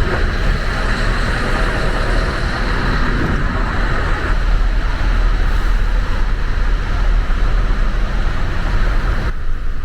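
Steady, loud engine rumble with a constant noisy hiss over it, which changes abruptly near the end.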